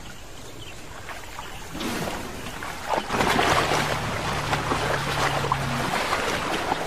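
Elephants wading into a lake, water splashing and sloshing, starting about three seconds in. A low steady tone runs underneath for a few seconds.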